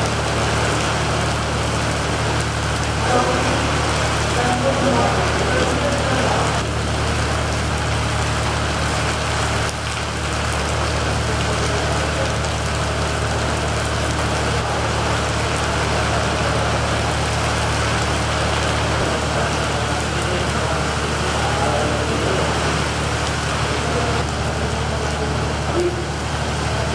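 Heavy monsoon rain pouring steadily, with a constant low hum underneath.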